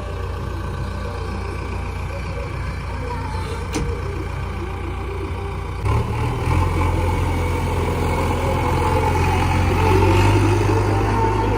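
Heavy diesel engine running steadily, then stepping up to a louder, higher-pitched run about six seconds in. A single sharp click comes a little before four seconds.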